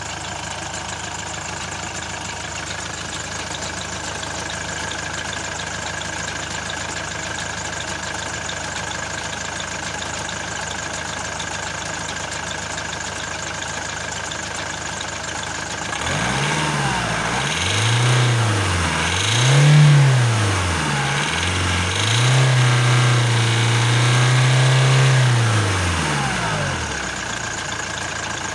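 Nissan X-Trail's YD22 2.2-litre four-cylinder turbodiesel idling steadily, then revved three times about 16 seconds in, the third rev held for a few seconds before dropping back to idle. The owner finds it loud and rattly when revved higher.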